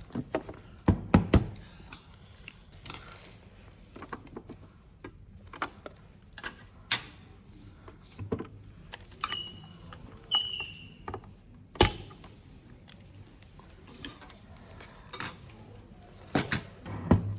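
Scattered clicks, taps and knocks of parts and tools being handled while a blood gas analyzer is taken apart, with two short high chirps about nine and ten seconds in and a sharper knock about twelve seconds in.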